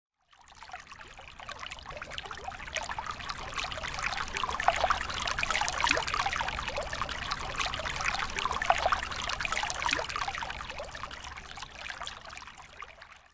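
Shallow water washing over a bed of small wet pebbles: a dense trickling fizz crowded with tiny clicks. It fades in at the start and fades out near the end.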